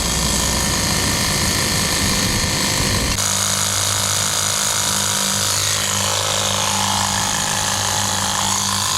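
A motor running steadily, with an abrupt change in its sound about three seconds in.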